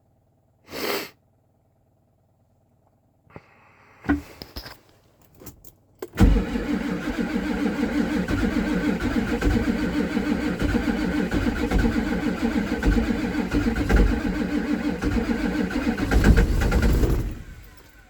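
Ford 7.3 IDI V8 diesel turning over and firing roughly in a hard cold start: a few clicks, then about six seconds in the engine sound comes in loud and pulsing, uneven, and it fades out near the end.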